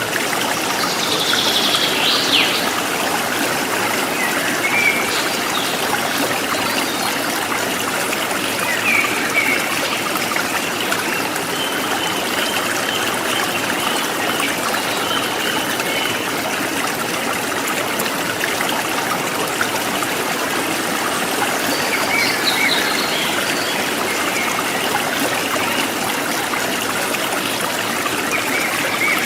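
River water flowing, a steady rushing and trickling.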